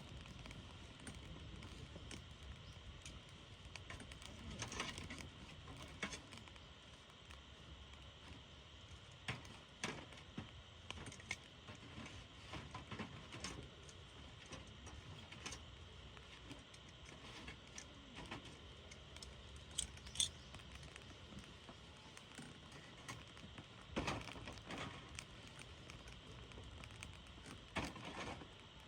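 Irregular small clicks and clinks over a faint steady hiss, as of a wood campfire crackling while metal camp cookware is handled.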